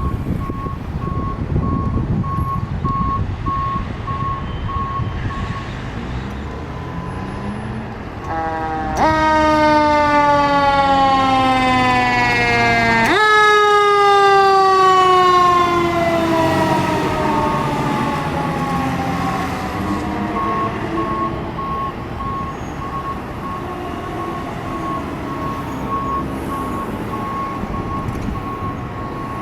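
Fire engine's Federal Q2B mechanical siren spun up twice, about a third and about halfway through, each time winding down in a long falling wail, over the truck's diesel engine rumble. A rapid, evenly pulsed high beep sounds before and after the siren.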